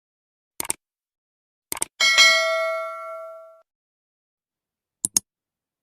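A single bell-like ding about two seconds in that rings out and fades over a second and a half, with a few short sharp clicks before it and a quick pair of clicks near the end.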